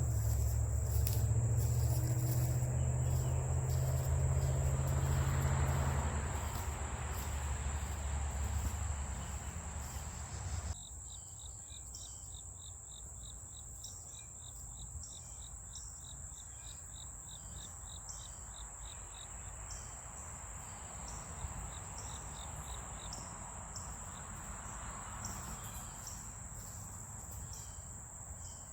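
Insects trilling: a steady high-pitched drone runs throughout, and a second, faster pulsing trill comes in for several seconds partway through. For the first ten seconds or so a loud low rumble sits underneath, and it cuts off abruptly.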